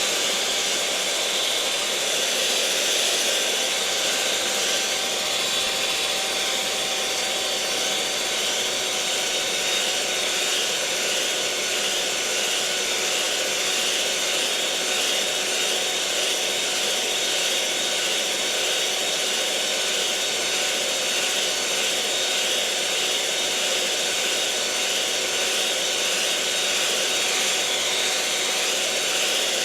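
Electric mixer motor running steadily at constant speed, a continuous whirring hum with a faint whine over it.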